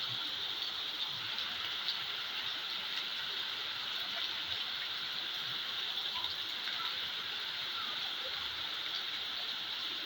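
Heavy rain falling, a steady hiss with scattered faint ticks.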